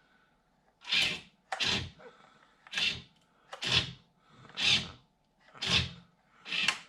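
Steering of a 1:14 Hua Peng King Hauler RC semi truck snapping the front wheels from lock to lock about once a second. Each swing is a short scraping whirr, with a faint steady electronic hum between them. The steering is not proportional, so each swing goes straight to full lock.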